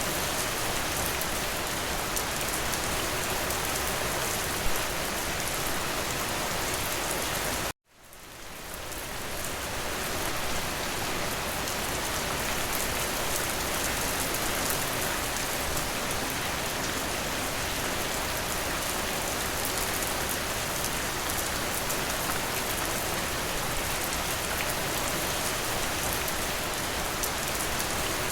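Steady rain hitting a window, an even hiss with scattered drop ticks. About eight seconds in it cuts out abruptly for a moment, then fades back in over a couple of seconds.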